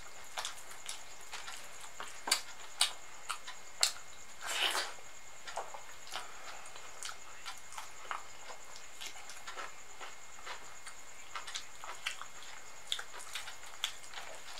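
Wet mouth sounds of someone eating soft khichdi by hand: a scatter of sharp smacks and clicks from chewing and lips, with one longer, noisier sound about four and a half seconds in.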